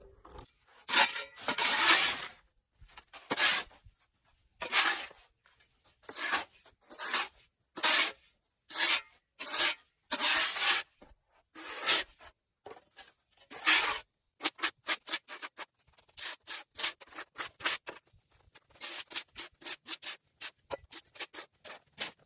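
Repeated rough rubbing strokes, like a stiff brush or broom working a surface: slow strokes of about a second at first, then from about fourteen seconds in, short quick strokes about four to five a second.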